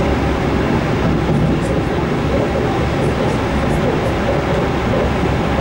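Passenger train running at speed, heard from inside the carriage as a steady rumble of wheels and rail noise.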